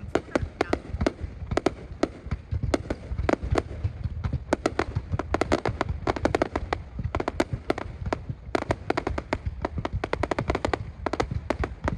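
Fireworks display: a dense, irregular run of sharp cracks and bangs over a low rumble, with no pause.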